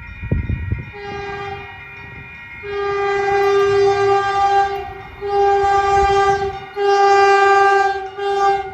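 Horn of an approaching Caltrain electric train, a Stadler KISS set, sounding four blasts of a steady multi-note chord. The first blast is softer and the second is the longest. A low rumble comes in the first second.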